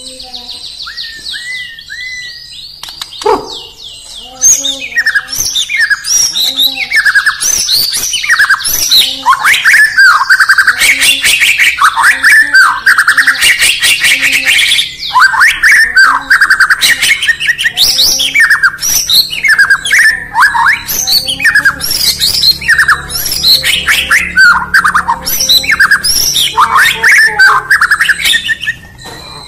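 White-rumped shama (murai batu) singing: a few quieter whistles, then from about four seconds in a loud, fast, varied run of swooping whistled notes mixed with harsh chattering clicks that keeps going almost to the end.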